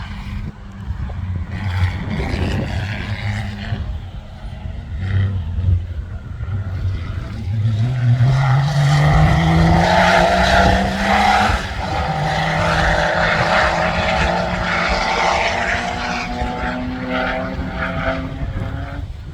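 Off-road competition safari vehicle's engine under throttle, its pitch climbing steadily as it accelerates from about seven to eleven seconds in, then running on at high revs.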